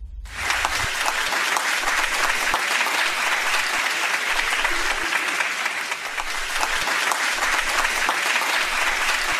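Crowd applauding: many people clapping, starting just after the beginning and holding steady.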